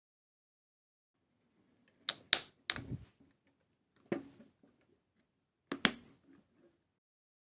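Sharp clicks and light knocks of small diecast model kit parts and tools being handled and set down on a work surface. Three come about two seconds in, one at about four seconds, and a quick double click near six seconds.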